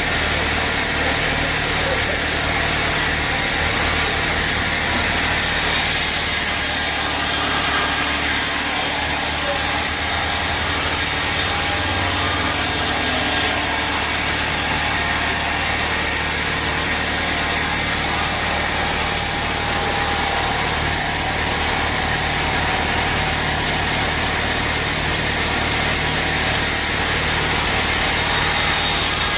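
Sawmill machinery running steadily: a constant engine drone under an even mechanical noise, with no clear cutting strokes or breaks.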